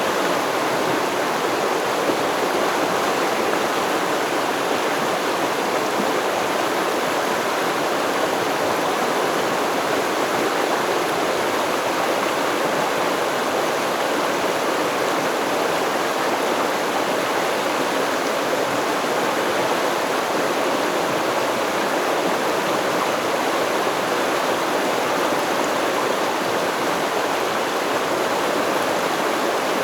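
River water flowing over rocks, a steady, unbroken rush and babble.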